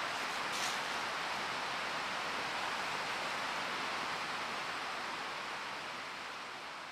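Steady rush of a mountain stream, fading out near the end.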